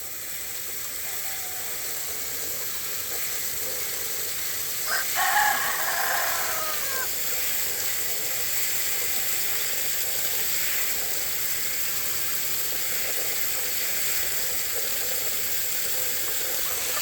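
A rooster crows once, about five seconds in, over a steady background hiss.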